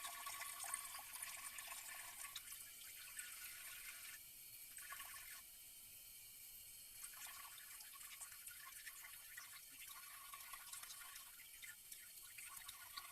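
Faint water trickling and dripping, fading over the first few seconds.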